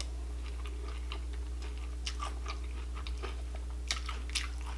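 Close-up chewing of a mouthful of Honey Bunches of Oats Vanilla Bunches cereal in milk: soft, irregular crunchy crackles, thickest around two and four seconds in, over a steady low hum.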